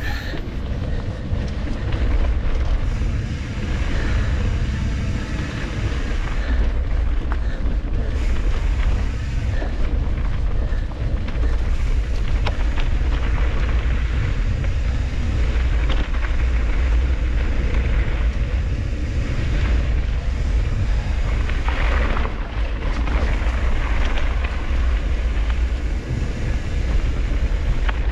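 Wind buffeting the microphone over a mountain bike rolling down a dirt trail, with the tyres crunching over dirt and rocks and scattered clicks and knocks from the bike.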